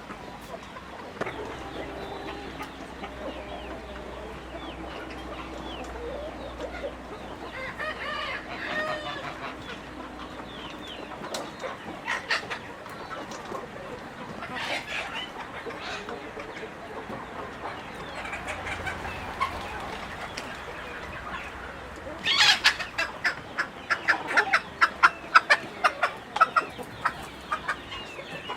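Chickens clucking. A run of loud, rapid clucks starts about three quarters of the way through.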